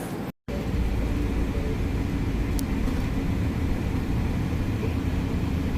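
Steady low rumble of a vehicle in motion, starting after a sudden cut to silence just after the start.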